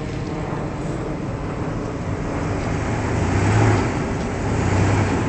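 Truck engine running under load nearby, rising in level twice near the end as it is given more throttle.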